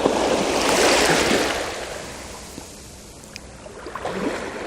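Small sea wave breaking and washing through shallow water, a rush of surf that swells about a second in and fades over the next two seconds, followed by a smaller wash near the end.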